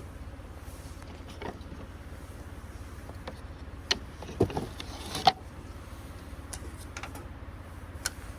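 A steady low hum with scattered clicks and knocks, bunched together about four to five seconds in, the last of them the loudest.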